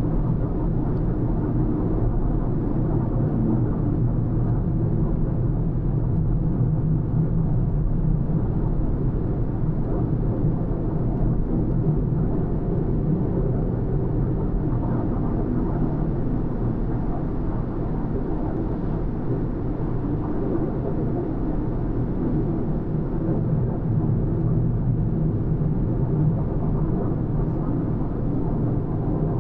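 A car driving at a steady pace: an even, steady low rumble of road and engine noise.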